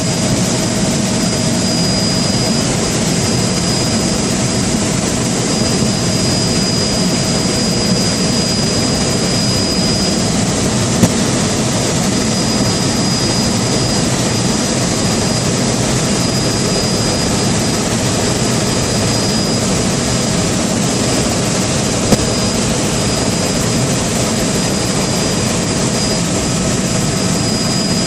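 Steady running noise of a moving vehicle, with a constant high-pitched whine over it and a couple of faint clicks.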